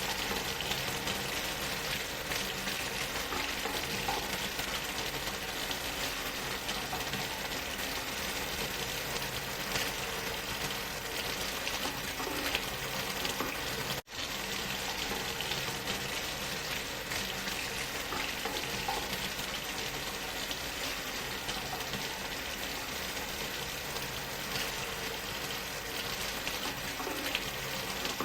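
Steady rushing of a waterfall, an even hiss with a fine spatter of water, cutting out for an instant about halfway through.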